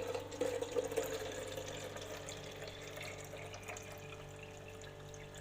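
Water running into the plastic water tank of a Nescafe Dolce Gusto coffee machine as it is filled, a steady splashing that slowly fades.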